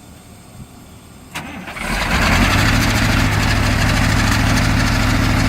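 A click about a second in, then an old Ford diesel engine catches on a cold start and settles into a steady idle.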